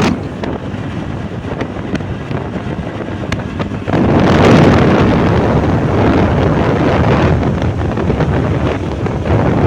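Wind buffeting the microphone on a moving motorbike, mixed with engine and road noise. The rush drops just after the start and grows louder again about four seconds in.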